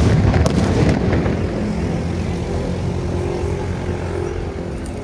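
Aerial firework shell bursts: a few sharp cracks in the first second, then the long rolling echo of the bursts slowly dying away. A steady low engine-like hum runs underneath.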